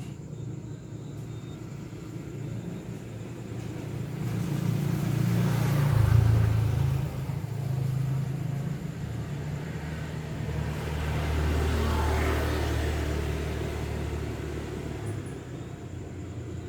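Motor vehicles passing by: two swells of engine rumble and road noise, the first peaking about six seconds in and the second about twelve seconds in.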